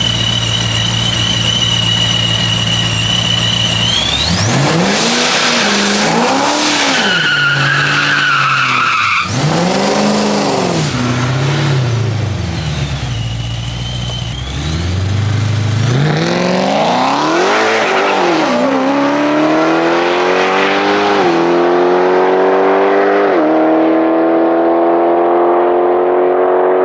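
A ProCharger-supercharged Hemi V8 car idles with a steady high whine. About four seconds in it starts revving up and down several times. From about two-thirds through it accelerates hard with two upshifts, the sound dulling as it pulls away.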